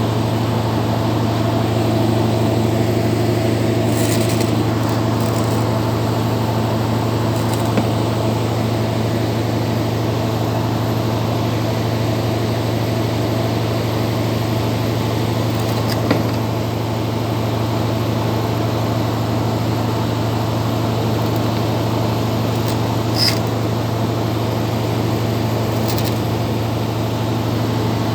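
Air conditioning compressor running with a steady low hum, with a few faint clicks along the way.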